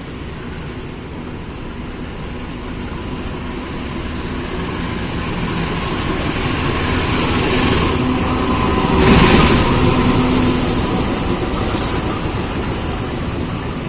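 A train passing close by: a steady hum and rumble that grows louder to a peak about nine seconds in, then fades, with a few sharp clicks after the peak.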